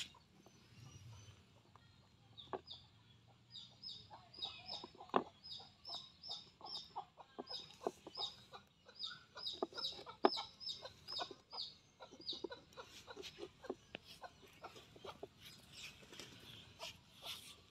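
Birds calling: a run of quick, high chirps about three a second through the middle, with scattered short clucking notes throughout.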